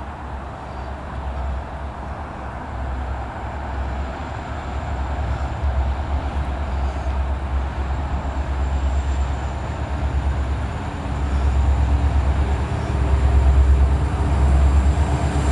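CSX intermodal freight train approaching: a low rumble from its diesel locomotives that grows steadily louder.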